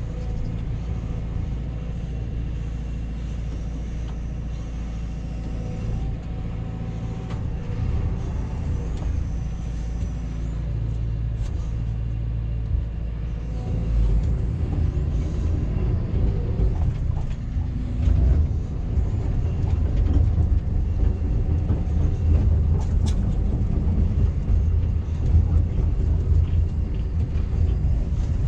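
Backhoe's diesel engine running under load, with a steady low rumble that grows louder and rougher about halfway through as the machine is worked.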